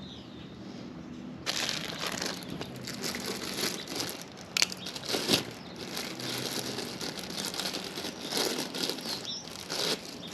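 Irregular crinkling and rustling of something being handled by hand, starting about one and a half seconds in, with a couple of sharper clicks midway.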